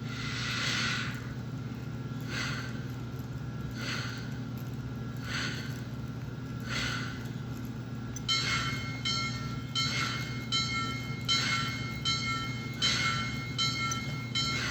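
Railsounds sound unit in a model steam locomotive playing slow steam chuffs, about one every one and a half seconds, over a steady electrical hum. About eight seconds in, a locomotive bell starts ringing, roughly one stroke every 0.7 seconds.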